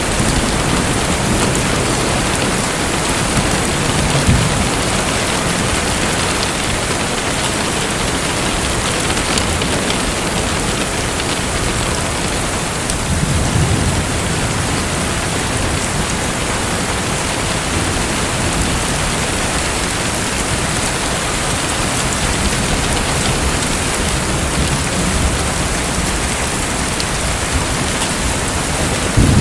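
Steady, continuous water noise like pouring or splashing water, with a couple of brief low rumbles.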